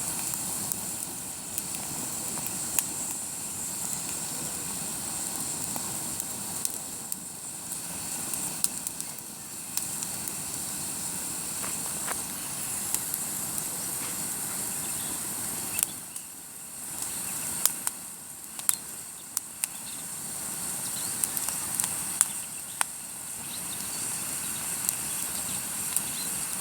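Campfire burning: a steady hiss with frequent sharp, irregular pops and crackles from the burning wood.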